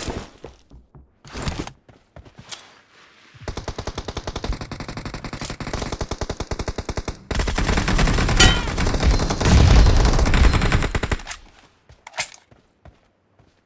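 Automatic gunfire in a first-person shooter game: rapid, evenly spaced shots start a few seconds in, then turn into a louder, heavier stretch of firing that stops about two seconds before the end, with one short sharp sound after it.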